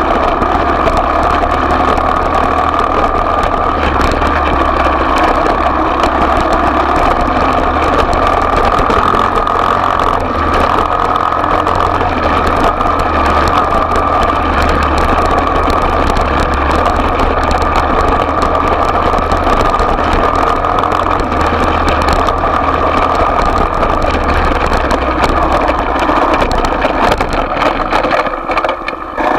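Small off-road motorcycle engine (pit bike or mini dirt bike) running at a steady speed, dipping briefly near the end.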